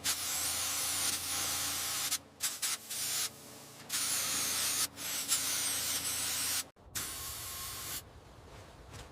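Hissing spray let off in several separate bursts of one to two seconds each, starting and stopping abruptly, with a fainter hiss near the end.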